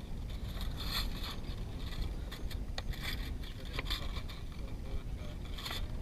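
Wind buffeting the microphone in a steady low rumble, with scattered light scrapes and clicks of gear being handled.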